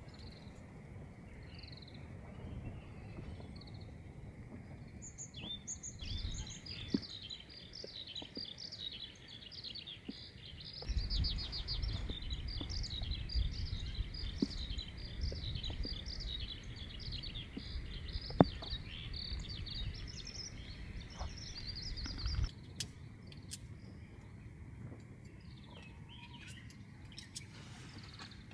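Small birds chirping and singing in quick, dense runs of notes through the middle of the stretch. Underneath is a low, steady rumble that grows louder about eleven seconds in and drops away as the birdsong ends, with a few faint clicks.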